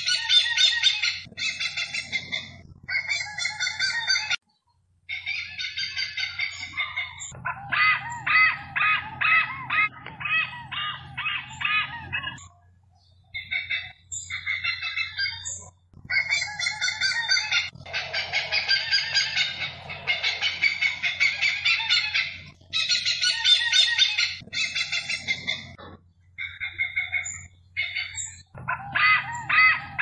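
Birds calling: bouts of rapid, harsh repeated notes, several a second, broken by short pauses, over a low steady hum.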